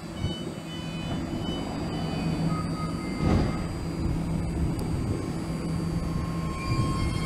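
BART Fleet of the Future electric train rolling in toward the platform, its running gear and motors making a steady hum with higher whining tones that strengthen near the end. There is a brief louder rumble about three seconds in.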